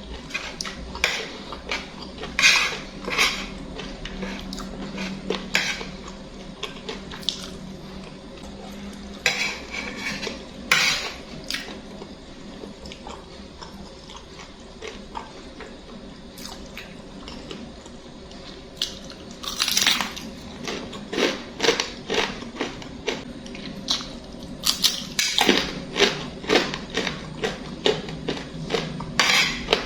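Cutlery clinking and scraping against a dish of instant noodles while eating, in scattered clusters of sharp clinks, busiest about two-thirds of the way through and again near the end.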